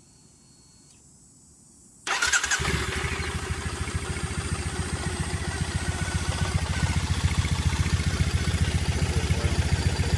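2013 Triumph motorcycle engine starting about two seconds in, catching at once, and settling into a steady idle, its first run after a fresh oil change.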